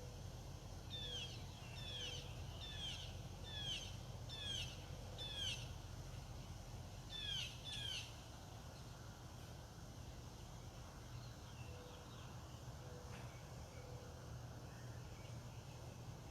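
A songbird calling: six short down-slurred whistled notes at about one a second, then two more after a short pause, over a steady low background hum.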